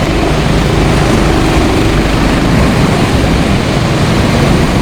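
Go-kart engines running as the karts lap a rain-soaked track, with a faint steady engine note in the first half and pitch glides about halfway through, under a loud, steady rushing noise.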